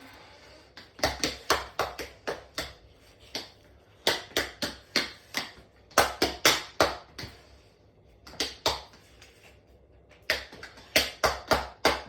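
Tumble dryer banging hard as it is run to destruction: sharp knocks come in runs of about two to three a second, pausing briefly a few times.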